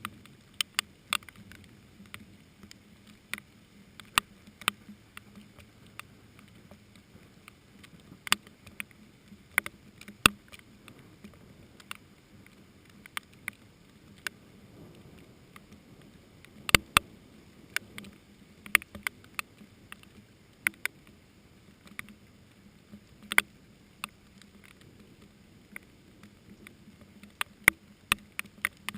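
Raindrops striking hot wax pepper plants: scattered sharp ticks at an uneven pace, about one or two a second, over a faint hiss of rain.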